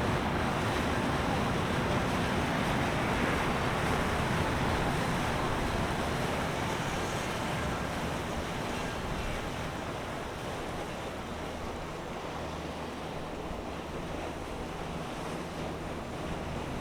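A steady rush of wind and moving water that eases off after the first half, with a low boat-engine hum showing through in the later part.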